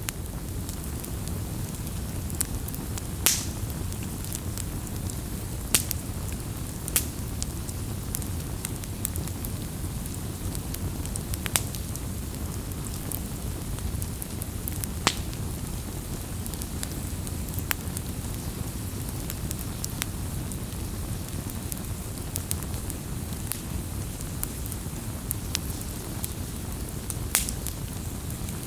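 Wood fire burning: a steady low rumble of flames under scattered crackles and sharp pops, a few of them loud snaps.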